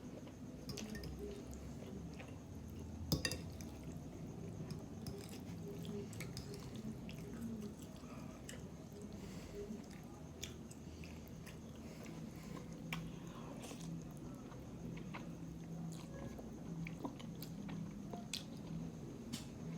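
Close-miked mouth sounds of a person eating instant noodles and pork ribs: wet chewing and biting with many small scattered clicks, and one sharper click about three seconds in.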